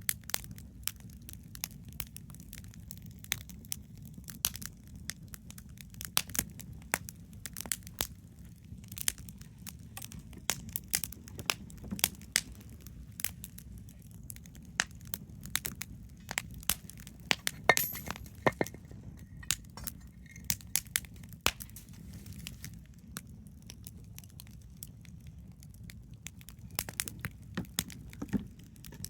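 Wood campfire crackling: irregular sharp pops and snaps over a steady low rumble, with a brief cluster of louder pops a little past halfway.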